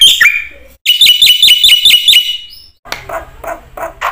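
Black-winged starling (jalak putih) singing loudly: two quick runs of clear, repeated whistled notes, then a harsh, rasping chatter of rough pulsed notes near the end.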